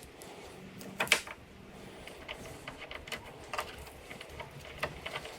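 Hood pin latch being test-fitted into a carbon fiber hood: a sharp click about a second in, then scattered small clicks, taps and scrapes as the part is handled and seated.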